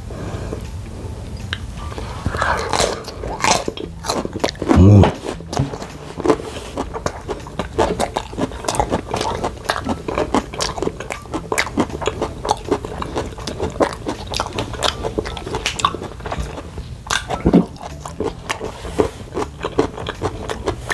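Close-miked chewing of a mouthful of food: a continuous run of wet mouth clicks and smacks.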